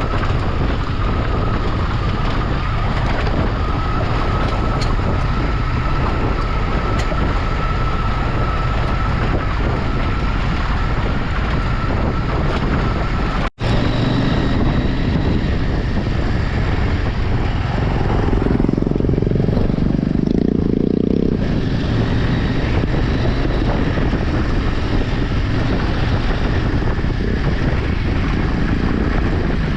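A vehicle driving off-road, with steady engine, tyre and wind noise. There is a sudden cut about 13 seconds in, and the low rumble swells for a few seconds around 18 to 21 seconds.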